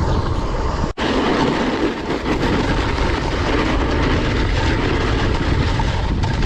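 Steady rush of wind on the microphone mixed with a snowboard scraping over hard, icy snow during a run, briefly cutting out about a second in.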